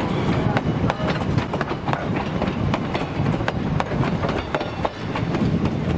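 Durango & Silverton narrow-gauge train rolling past, a steady low rumble with many sharp clicks of the wheels over the rail joints.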